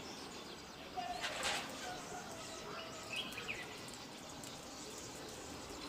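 Outdoor ambience of a steady hiss with a few short bird chirps, and a brief noisy rustle about a second in.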